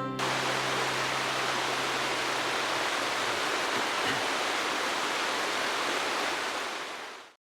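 Steady rushing water noise, even and unbroken, that fades out near the end.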